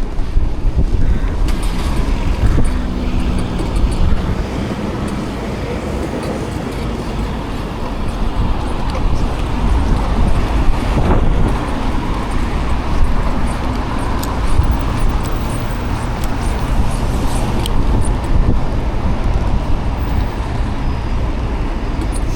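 City road traffic noise: cars passing close by, with a steady low rumble underneath.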